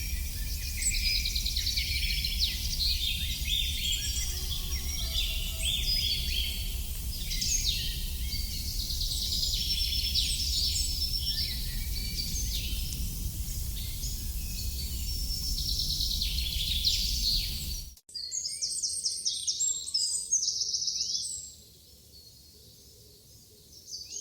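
Several songbirds singing and chirping at once in a dense chorus of quick trills and twitters, over a steady low rumble. About three quarters of the way through the sound cuts abruptly: the rumble stops, and fewer birds sing on before a brief quiet spell near the end.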